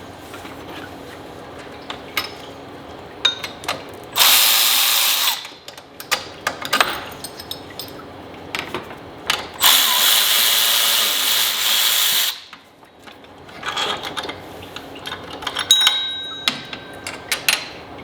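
A power tool runs in two bursts, one of about a second and a longer one of about two and a half seconds, amid scattered clicks and clinks of hand tools being worked.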